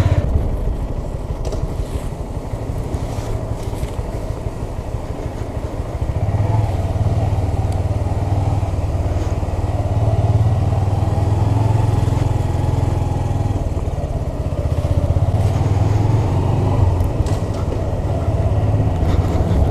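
Honda Grom's 125 cc single-cylinder four-stroke engine running at low speed under way, a steady hum that grows louder about six seconds in and holds there.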